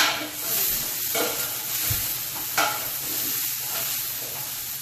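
Diced celery and onion sizzling as they sauté in a pot, stirred with a few scraping strokes of a utensil.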